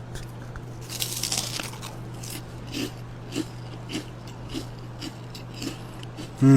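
A person biting into crunchy hot fries dipped in sour cream and chewing with their mouth close to the microphone, one larger crunch about a second in, then a short crunch roughly every half second. A steady low hum runs underneath.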